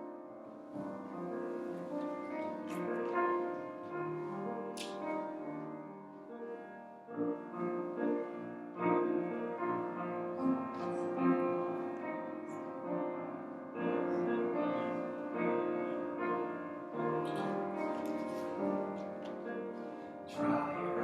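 Piano playing slow, sustained chords.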